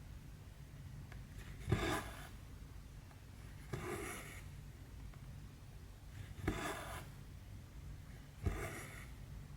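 Cross-stitch needle and thread pulled through 14-count cross-stitch fabric, four times about two seconds apart. Each stitch is a sharp tick as the needle pierces the fabric, then a short swish of the floss being drawn through.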